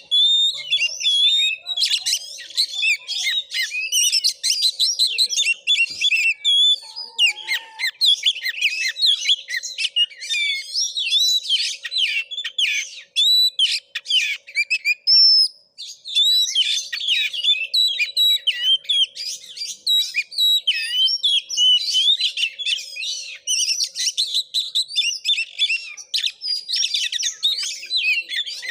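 Oriental magpie-robin (kacer) singing hard: a fast, unbroken stream of varied chirps, whistles and trills, with a short pause about halfway through.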